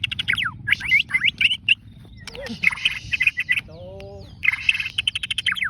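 White-rumped shama (murai batu) singing hard: a rapid run of loud whistles, quick downward-sweeping notes and fast chattering trills, over a steady low background rumble.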